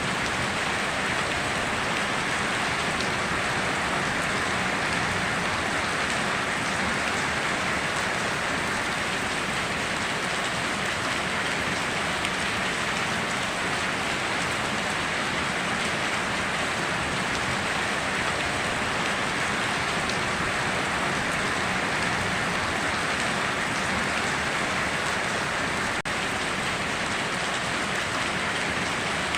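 Steady, heavy rain falling and pattering on surfaces, an even hiss with no thunder or breaks.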